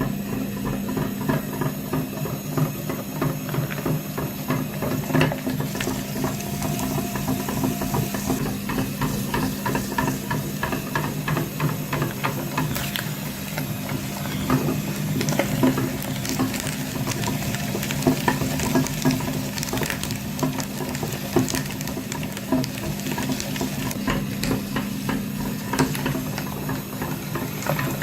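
A small motor running steadily, a constant hum with rapid clicking and rattling over it.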